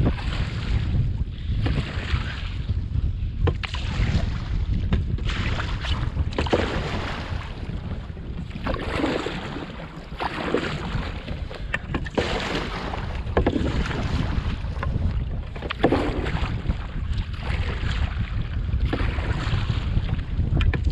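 Wind buffeting the microphone with a steady low rumble, over canoe paddle strokes dipping and splashing in the water about once every second and a half, with the odd knock of the paddle.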